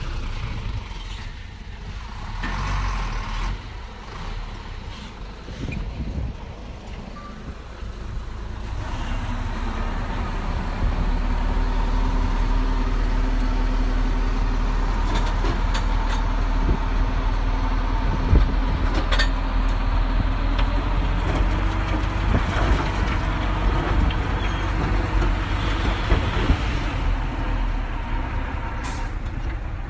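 Heavy diesel earthmoving machinery running. The engine gets louder about a third of the way in and then holds steady, with occasional short metallic clanks.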